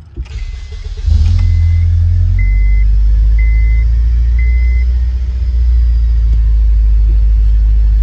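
Honda Civic EP3 Type R's K20A2 engine cranking briefly, catching about a second in, and settling into a steady idle on engine mounts stiffened with Powerflex inserts. A beep sounds about once a second and stops about halfway.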